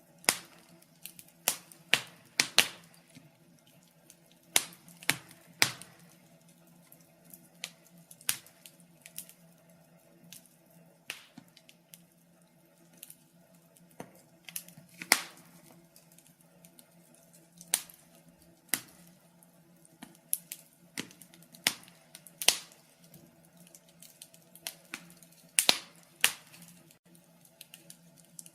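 Wood fire crackling: irregular sharp pops and snaps, several close together at times, over a faint steady low hum.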